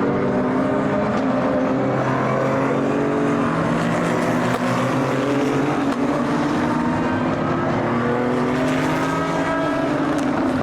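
Several race car engines running on track at once, their notes overlapping at different pitches, with engine notes rising as the cars accelerate.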